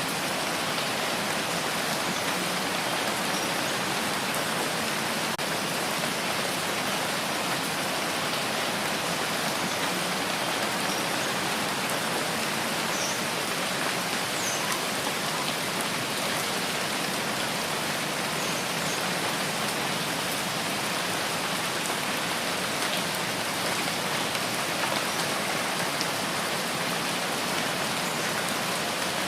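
Steady rainfall: an even hiss of rain with a few faint drop ticks scattered through it.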